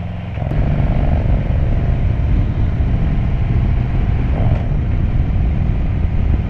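Harley-Davidson Road Glide's Milwaukee-Eight V-twin engine running as the bike rides through traffic, mixed with wind rushing over the microphone. The sound steps up louder and rougher about half a second in.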